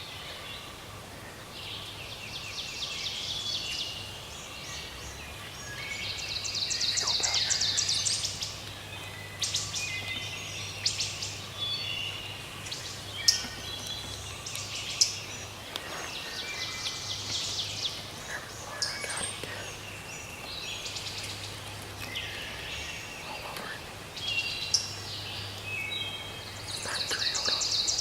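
Wild songbirds singing in spring woods: rapid trilled phrases come again every several seconds, with other chirps between them. A few sharp clicks are heard near the middle.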